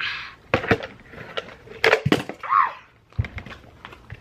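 A few sharp knocks and clatters of hard objects, with a brief vocal sound about two and a half seconds in.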